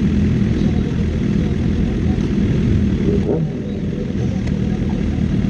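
1000cc superbike motorcycle engines running steadily, with little change in pitch.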